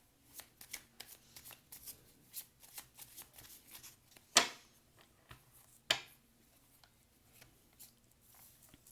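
Tarot cards being shuffled by hand, a quick run of soft card clicks, with two louder slaps of the deck at about four and a half and six seconds in.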